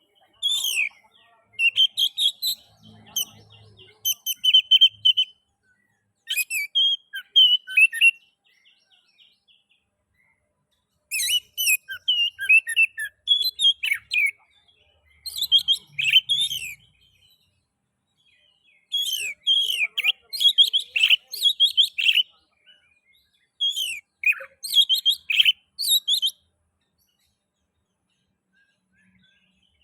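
Oriental magpie-robin singing: phrases of rapid, high whistled and chattering notes, each lasting a few seconds, broken by short pauses and a longer pause near the end.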